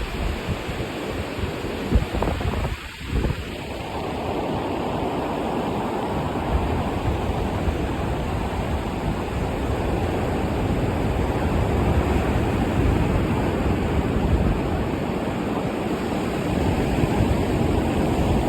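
Sea surf breaking and washing up the beach, with wind buffeting the microphone in a low rumble. A brief lull about three seconds in, after which the wash builds and stays steady.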